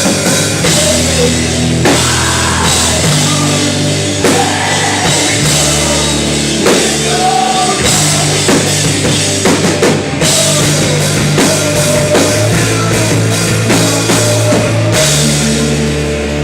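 Live rock band playing loudly: a drum kit keeping a steady beat under held bass notes and electric guitar, the chords changing every second or two.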